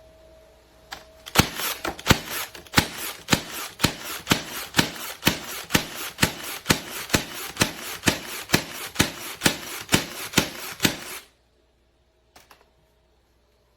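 Cordless battery-powered 14-gauge T nailer firing over and over, about two and a half shots a second, with a steady rushing noise between the shots; the firing stops suddenly, and a single faint click follows about a second later.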